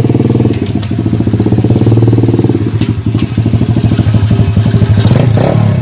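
Motorcycle engine running steadily close by, with a fast, even pulse.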